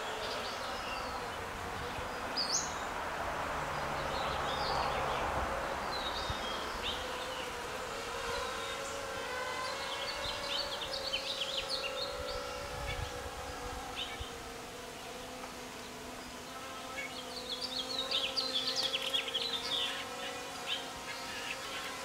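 A steady buzzing drone, with short high bird chirps coming in clusters about ten seconds in and again near the end.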